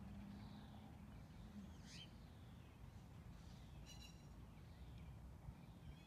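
Near silence outdoors: a faint low background rumble with a few faint bird chirps, most noticeably about two and four seconds in.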